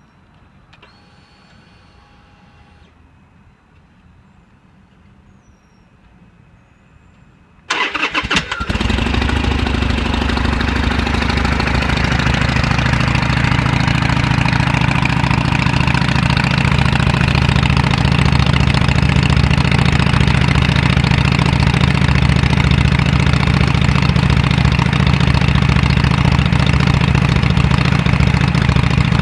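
Harley-Davidson Sportster 883N Iron's air-cooled V-twin started on the electric starter about eight seconds in, catching after about a second of cranking, then idling steadily through North American-market mufflers with baffles punched out to 12 mm.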